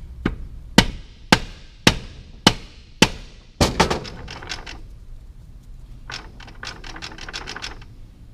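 Five sharp, ringing metal taps about half a second apart, then a quick cluster of knocks and some lighter rattling clicks: a ring being tapped down into its seat in the transmission because it had not yet clicked fully home.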